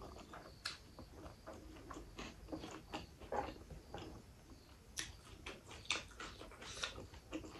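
Faint chewing and wet mouth clicks of someone eating rice and mutton gravy, with soft squishes of fingers mixing the rice on a tray. Irregular small smacks keep coming, a few louder ones about a second in, around five seconds, and near the end.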